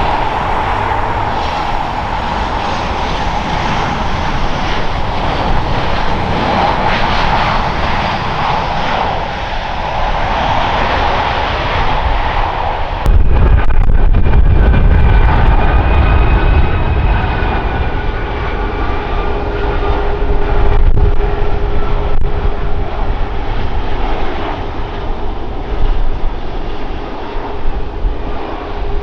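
Airliner engines running loud and steady as a plane passes. About halfway through the sound switches abruptly to a deeper, heavier rumble with steady whining tones above it.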